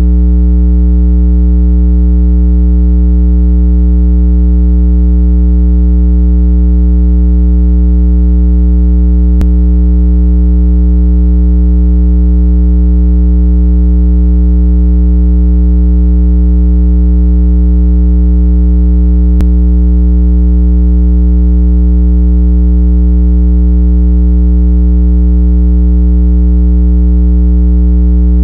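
Continuous loud, steady low electronic tone: a synthesized 165 Hz speaker water-eject tone, played to shake trapped water out of earbud and phone speakers. It holds unchanging throughout, with a faint click about every ten seconds where the tone loops.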